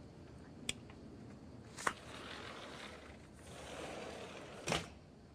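Three sharp clicks or knocks, one under a second in, one near two seconds and one near the end, with soft rustling between the last two.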